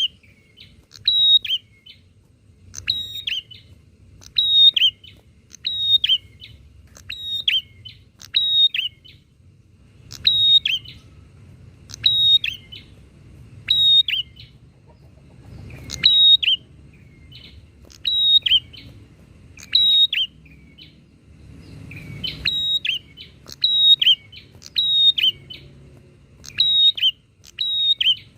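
Prinias (prenjak) calling loudly and persistently, a short sharp high phrase repeated about every second and a half, birds answering one another.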